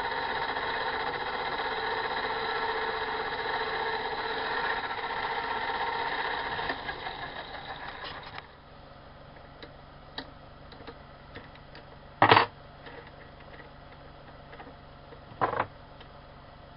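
A machine tool's motor and spindle running steadily, then slowing and coasting to a stop about eight seconds in. After that come a few light clicks and two short, loud bursts of noise, the second about three seconds after the first.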